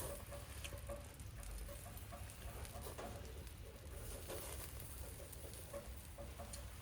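Light rain pattering, mixed with small irregular crackles and ticks from a wood-fire grill with skewers on it.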